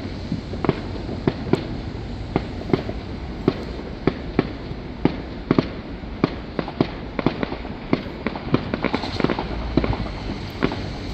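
Fireworks going off: a continual string of sharp bangs and pops, several a second at irregular spacing, over a steady low rumble.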